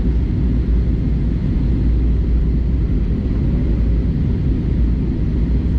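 Airbus A320-200 in flight, heard from inside the passenger cabin: a steady low rumble of engine and airflow noise.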